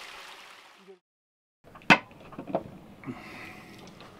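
Rushing stream water fading out, a brief moment of silence, then one sharp click about two seconds in, followed by a few softer knocks and handling sounds.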